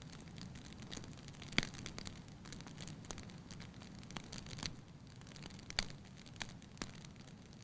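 Wood campfire crackling, with a few sharp, irregularly spaced pops over a low steady background of the burning fire.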